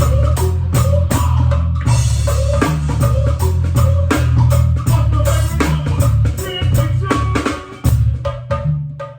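A band playing: a drum kit keeping a steady beat with snare and bass drum over a heavy low bass line, fading away near the end.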